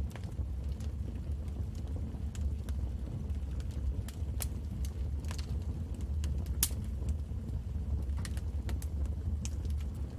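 Wood fire crackling in a fireplace: irregular sharp pops and snaps over a steady low rumble of the flames, with one louder pop a little past halfway.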